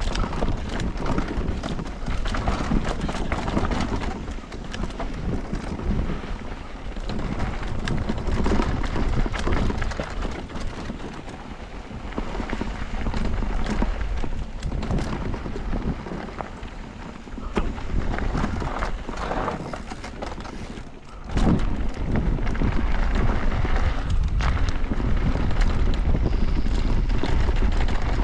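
Wind buffeting an action camera's microphone, mixed with the clatter of a mountain bike's tyres and frame over a rough dirt trail at speed. About three-quarters of the way through, after a brief drop, the rushing gets louder and steadier.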